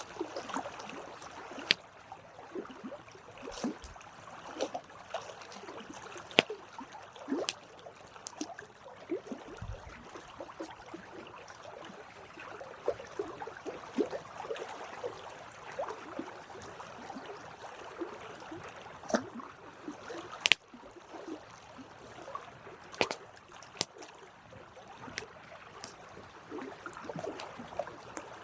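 Campfire burning: wood crackling with frequent irregular sharp snaps and pops over a soft steady hiss.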